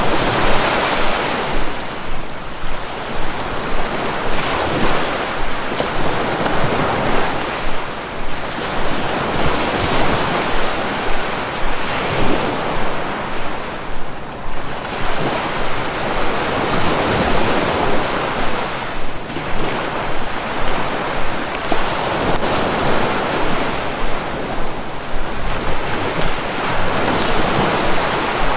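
Sea waves breaking and washing ashore, a continuous loud rush that swells and eases every few seconds.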